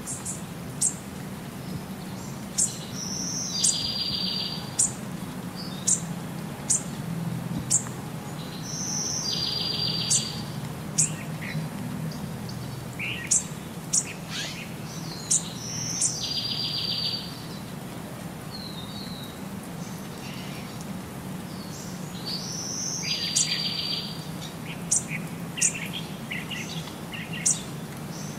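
Small birds chirping and singing: sharp high chirps, and a short buzzy trill that comes back about every six to seven seconds, over a low steady hum.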